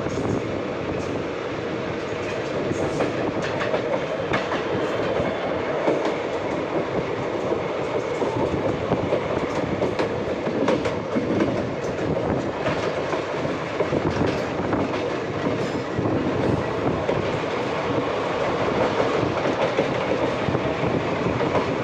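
Passenger train running along the track: a steady rumble with the clickety-clack of wheels over rail joints.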